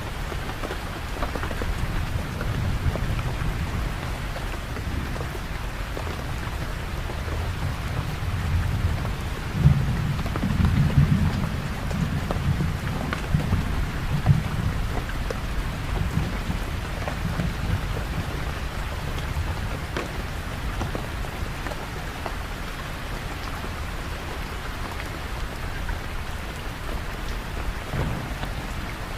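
Steady rain falling, with a low rumble of thunder that swells about ten seconds in and dies away over the next few seconds.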